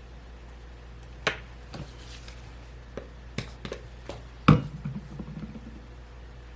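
A few scattered clicks and light taps of small objects being handled, with one louder knock about four and a half seconds in, over a steady low hum.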